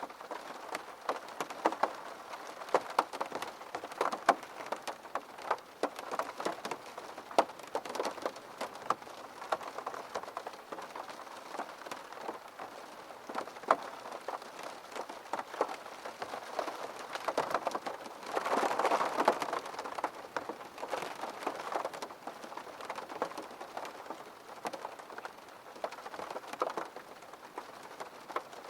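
Rain on a window, many separate drops tapping on the glass over a steady patter, with a heavier spell about two-thirds of the way through.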